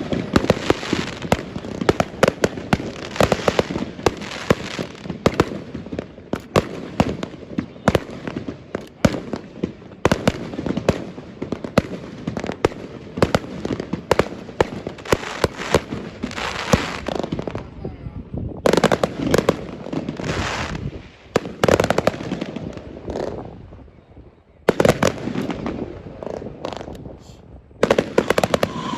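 Fireworks show: a dense, rapid run of bangs and crackling bursts, easing into a few short lulls in the last third.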